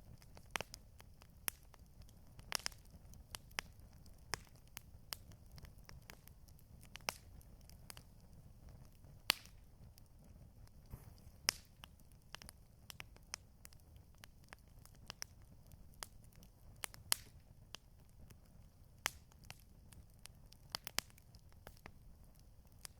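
Campfire crackling: irregular sharp pops and snaps from burning wood, a few a second, over a low steady rumble.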